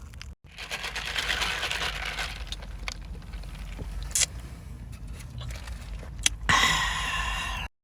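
A person eating a sausage McMuffin, with chewing and food-handling noise, a few small clicks, and a louder rustling stretch near the end that stops abruptly.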